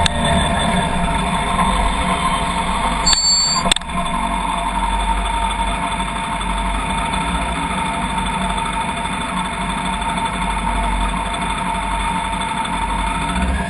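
Car engine running steadily with constant vehicle noise, and two short clicks a little over three seconds in.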